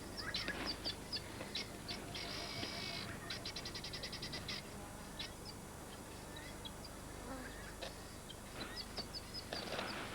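Bush ambience of birds and insects calling: scattered short high chirps, a brief buzzy call about two seconds in, then a rapid run of clicks at about nine a second.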